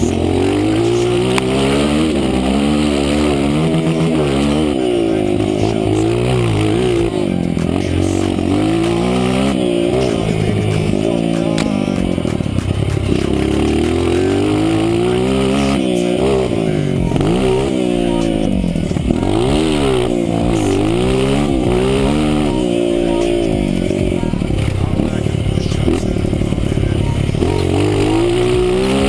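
Honda CRF230's single-cylinder four-stroke engine accelerating hard, its pitch climbing and then falling off again over and over, every couple of seconds, as the throttle is opened and rolled off.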